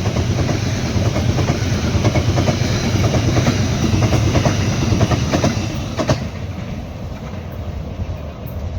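Train passing at speed over a bridge: a heavy rumble with a quick clickety-clack of wheels over rail joints, dropping off sharply about six seconds in as the end of the train goes by.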